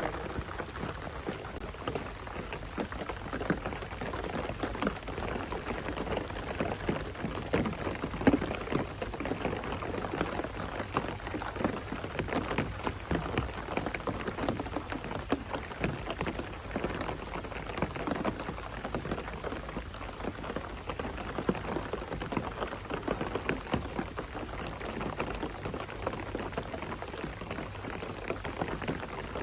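Steady rain falling, a dense patter of many drops striking surfaces close by, with one louder drop-hit about eight seconds in.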